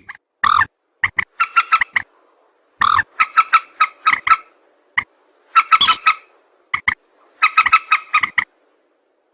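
Mandar (rail) calls used as a trapping lure: clusters of harsh, rapid call notes, repeated every second or so, with abrupt dead silence between the bursts.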